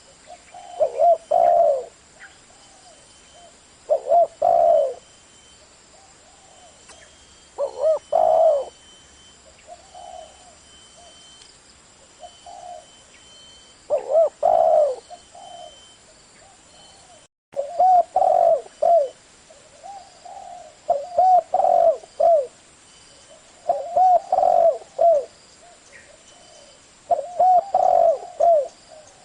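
Spotted dove cooing: short phrases of several low, rounded coo notes, repeated every few seconds. The sound cuts out completely for a moment about two-thirds of the way through.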